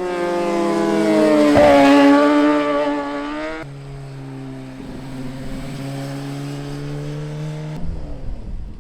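Superbike engine pulling hard with its pitch climbing, broken briefly by a gear change about a second and a half in. The throttle shuts suddenly about three and a half seconds in, and the engine then runs steadily at lower revs, with another quick change near the end.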